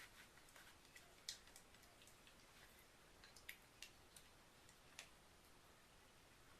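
Near silence with a few faint, scattered clicks and light taps, irregularly spaced.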